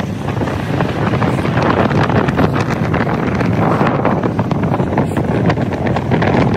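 Wind buffeting the microphone while riding a bicycle: a loud, steady rushing.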